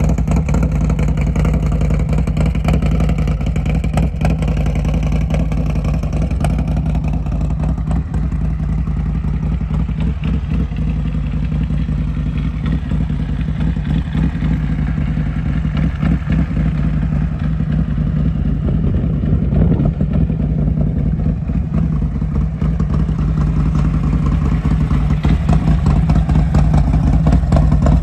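Motorcycle's S&S 131 cubic-inch V-twin with an S&S 540 cam, running steadily through a D&D Big Bore baffled exhaust while warming up from a cold start; it gets a little louder near the end.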